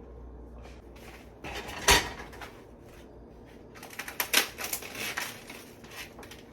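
Kitchen handling noises: a single sharp knock about two seconds in, like a cupboard door or a hard object set down, then a quick run of small clicks and clatters a couple of seconds later.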